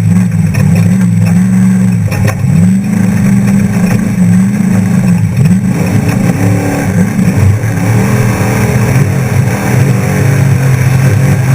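Off-road trophy truck engine running hard, its pitch climbing and dropping again and again as the throttle opens and closes, over a steady rush of noise.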